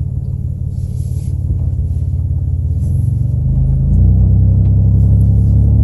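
Vehicle engine running under way, heard from inside the cab as a low rumble, growing louder and rising slightly in pitch about four seconds in as it accelerates.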